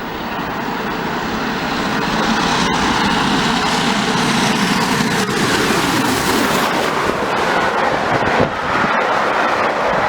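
A train approaching and passing close by the track, growing louder over the first couple of seconds and then holding a steady, heavy rumble and rush of noise.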